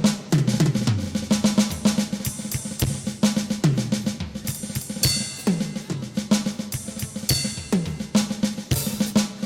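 Drum kit being played: fast snare and tom fills with falling-pitch tom hits, bass drum, hi-hat, and cymbal crashes about five seconds in and again near the end.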